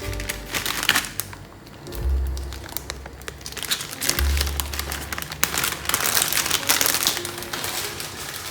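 Crinkling and crackling, a dense run of small clicks that is thickest in the second half, over background music with a low, recurring bass note.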